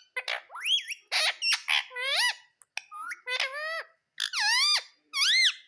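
Ringneck parrot calling in a quick run of about eight high calls, each swooping up and down in pitch.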